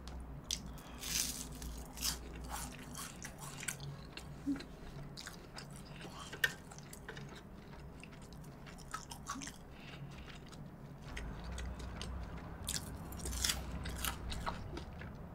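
Close-miked eating of a crispy breaded, deep-fried pork cutlet (tonkatsu): irregular crunching bites into the fried crust, then chewing.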